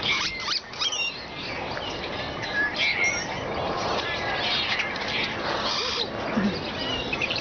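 Small birds chirping, short high calls heard several times, over a steady background hiss.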